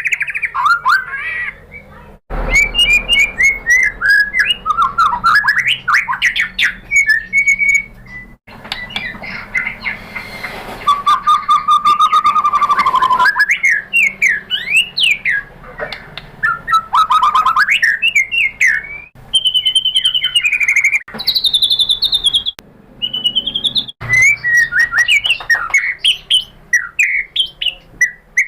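White-rumped shama (murai batu) song used as a lure track: a loud, varied run of whistled phrases, rapid chirps and trills, with a long held whistle near the middle. The song comes in spliced-together sections that break off suddenly several times.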